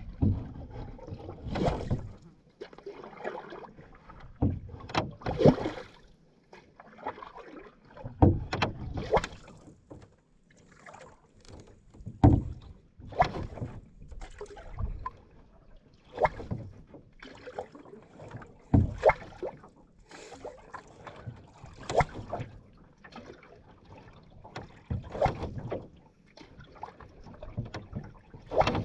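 Canoe paddle strokes splashing in water, one every couple of seconds in an uneven rhythm.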